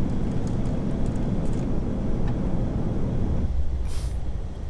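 Steady rumble and rush of airflow and engines in an Airbus A380 cockpit during the approach descent, easing about three and a half seconds in, with a brief high hiss near the end.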